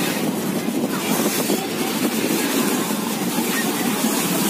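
Strong wind buffeting the microphone over the steady rush of high surf on a beach.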